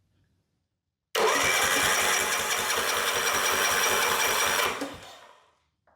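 Electric starter cranking a 2006 Nissan 15 hp four-stroke outboard with its spark plugs out and a compression gauge fitted: a steady whirring spin with a rapid even pulse. It starts sharply a little over a second in and winds down near the end without the engine firing. This is a compression test, and the gauge reads a little over 130.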